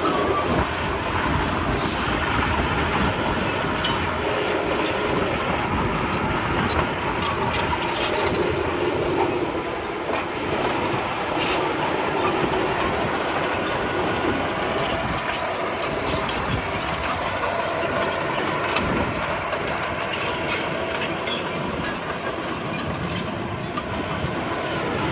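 Komatsu D31P crawler bulldozer's diesel engine running steadily under work, with the clanking of its steel tracks and scattered sharp clicks and knocks of stone.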